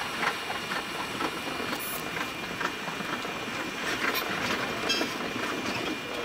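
JR E233 series electric train running along the track, heard from the driver's cab: steady running noise with occasional light clicks from the wheels on the rails.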